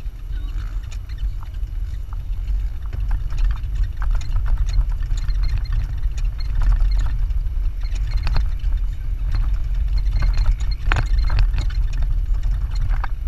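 A Jeep driving over sand dunes, heard from on board: a steady low rumble with frequent short knocks and rattles.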